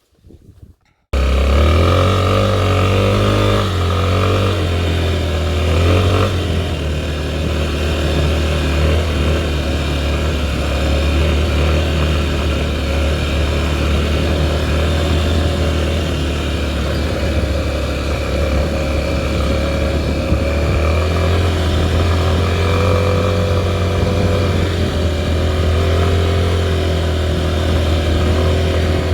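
Four-stroke single-cylinder Honda trail bike engine running steadily, cutting in suddenly about a second in, with small rises and falls in pitch.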